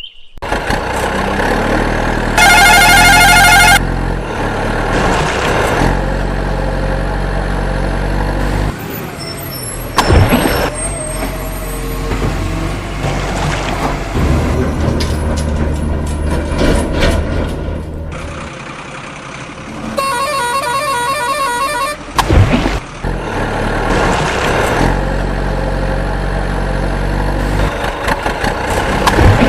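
Truck engine running steadily, with a loud warbling horn blast about two and a half seconds in and another around twenty seconds in, and a couple of sharp knocks.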